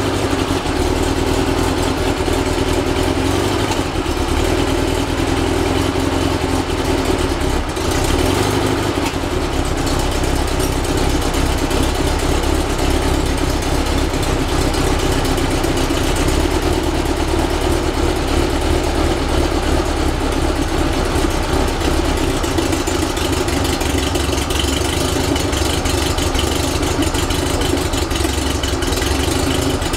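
Rebuilt 1835cc Volkswagen air-cooled flat-four engine, fitted with a vintage speed muffler, running steadily at idle on its first run since the rebuild.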